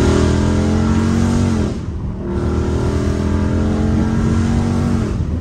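Dodge Charger Scat Pack's 6.4-litre HEMI V8 with catless exhaust, heard loud from inside the cabin, pulling hard with the exhaust note climbing. The note breaks off briefly about two seconds in, then climbs again and eases off near the end.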